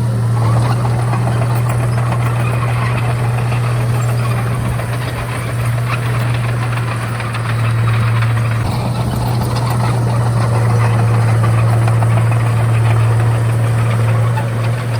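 Komatsu D31A bulldozer's diesel engine running steadily under work, with a constant low drone; it eases off briefly about halfway through, then picks up again.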